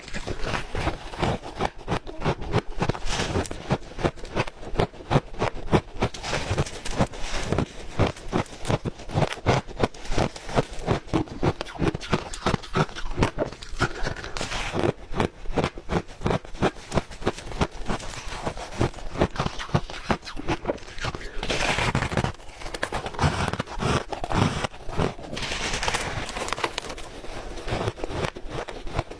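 Ice being chewed close to the microphone: a steady run of loud, crisp crunches, about three a second.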